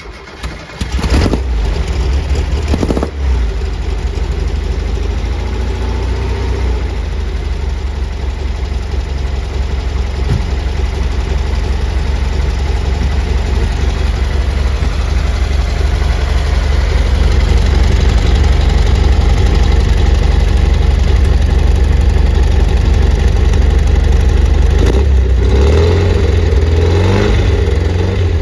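1973 Volkswagen Squareback's air-cooled flat-four engine catching about a second in and settling into a steady idle. It idles smoothly although its number three cylinder is down on compression.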